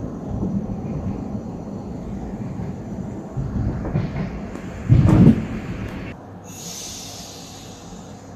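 Passenger train running through a tunnel, heard from inside the carriage: a steady low rumble of the wheels on the track. A loud thump comes about five seconds in, and about a second later a hiss starts while the rumble drops.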